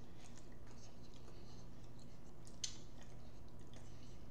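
Close-miked eating sounds: sparse soft mouth clicks and smacks of someone chewing, with one sharper click about two and a half seconds in, over a steady low hum.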